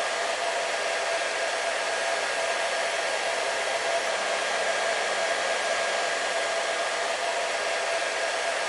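Hair dryer running steadily: a constant rushing of blown air with a faint steady whine from the motor.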